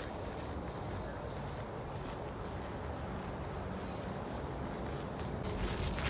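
Insects chirring steadily in a high, thin drone, over low outdoor rumble. About five and a half seconds in, a louder high hiss and a few sharp clicks come in.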